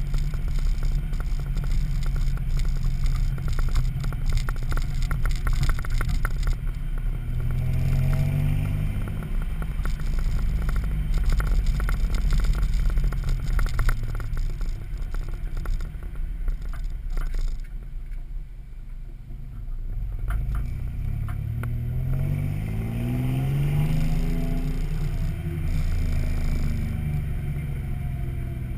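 Toyota 3.4 L 5VZ-FE V6 running through a Flowmaster 40 muffler and a 4-inch exhaust pipe, a deep exhaust note that rises in pitch twice as the engine is revved up, once about a quarter of the way in and again near three quarters, easing off in between.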